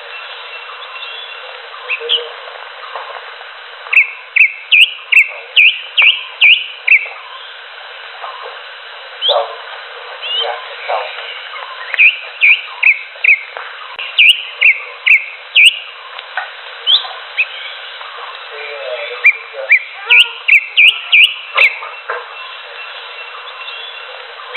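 Cucak hijau (green leafbird) calling: three runs of short, loud whistled notes at about two a second, over a steady background hiss.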